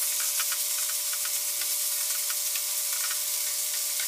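Onion-tomato masala sizzling in oil in a nonstick pan, with a wooden spatula scraping and ticking against the pan as it is stirred.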